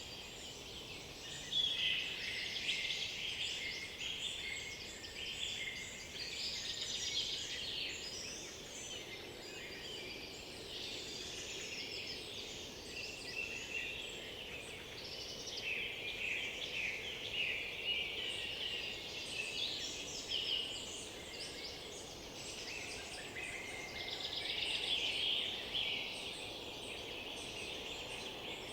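Several woodland songbirds singing at once, their songs overlapping without pause: short whistled phrases, chirps and fast trills, rising in loudness in bursts and easing back.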